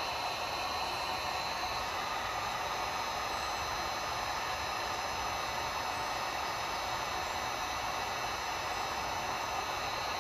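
Electric heat gun running, blowing a steady hiss of hot air, with a faint high whine that stops about two seconds in.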